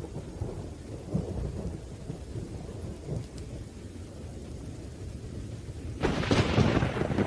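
Thunderstorm: low rolling thunder rumbling under steady rain, then a sudden loud thunderclap about six seconds in.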